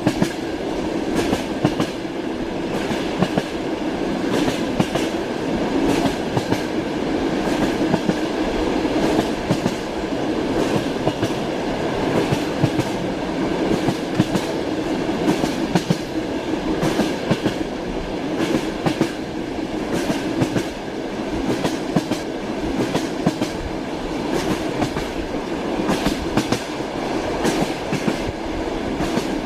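Train running along the track, its wheels clattering over the rail joints in a rapid, uneven string of clicks over a steady rumble.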